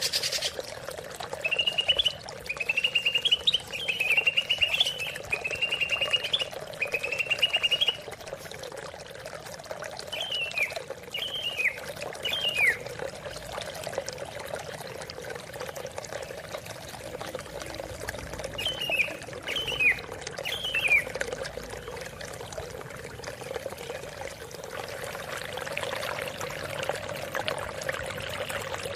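A cucak ijo (green leafbird) singing over steadily running water. It gives a run of rapid trilled phrases for the first several seconds, then two groups of three sharp falling notes, one group a few seconds after the trills and another later on.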